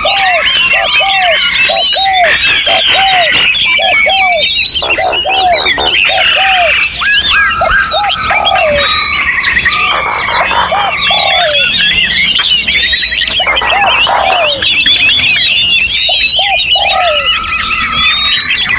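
Dense chorus of many songbirds singing at once in an aviary, overlapping whistles and trills. Through it runs a low, arched note repeated in runs of about two a second.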